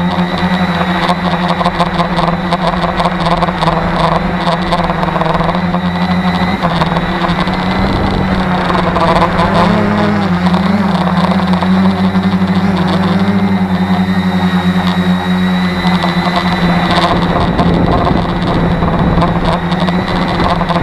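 Tarot 650 multirotor drone's electric motors and propellers humming steadily in flight, the pitch wavering a little in the middle as the flight controller adjusts motor speed against strong gusting wind. Wind noise rushes under the hum.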